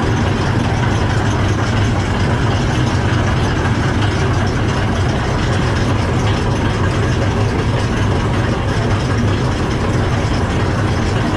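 Don-1500B combine harvester running steadily while threshing, its diesel engine and threshing machinery making a constant loud drone with a strong low hum.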